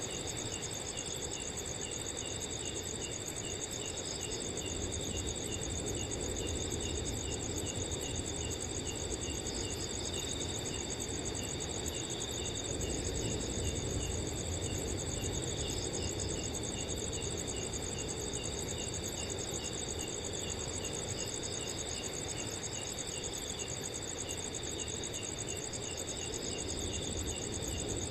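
Several crickets calling at once: a steady high trill, with other crickets repeating short regular chirps at lower pitches. Soft wind noise rumbles underneath.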